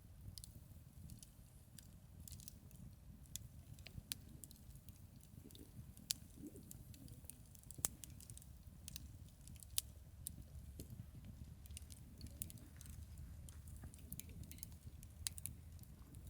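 Wood campfire crackling, with sharp pops and snaps at irregular intervals over a low steady rumble.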